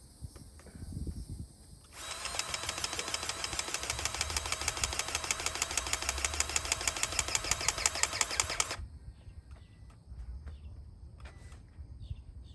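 Impact gun (impact wrench) hammering rapidly and steadily for about seven seconds, starting about two seconds in and cutting off sharply, with a few faint knocks before and after.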